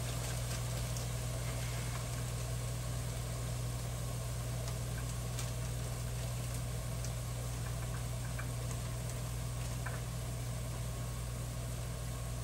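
Mushrooms and mixed vegetables sizzling in a stainless steel skillet on high heat as their water cooks off, with scattered faint crackles. A steady low hum runs underneath.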